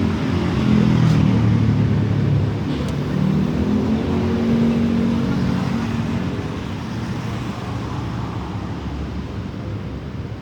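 Yamaha MX King motorcycle's single-cylinder engine running through an aftermarket DBS exhaust, picking up a little in pitch around the middle, then settling lower and quieter toward the end.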